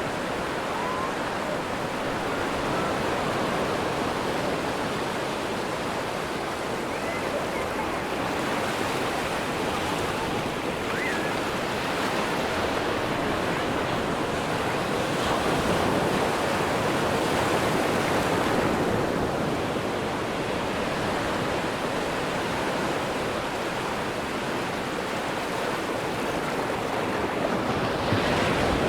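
Atlantic surf washing onto a sandy beach: a steady rush of breaking waves that swells a little louder about halfway through.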